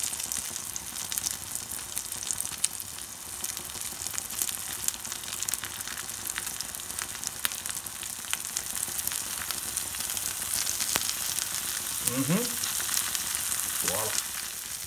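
Egg omelette frying in hot oil in a frying pan: a steady sizzle with frequent small pops and crackles.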